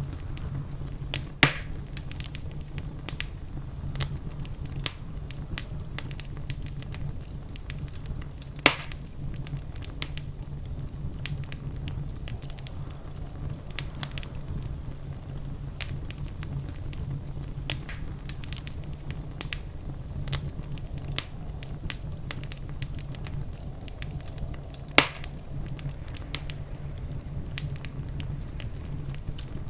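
Wood fire in a fireplace crackling, with a constant patter of small pops and three much louder snaps, over a steady low rumble.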